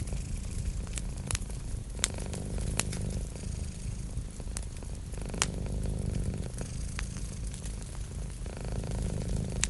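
A cat purring steadily, close up, with a handful of sharp pops and crackles from a wood fire scattered through.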